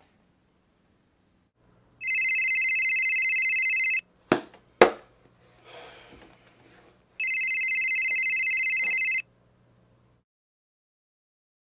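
A telephone ringing twice with an electronic trilling ring. Each ring lasts about two seconds, with about three seconds between them, and two sharp clicks fall between the rings.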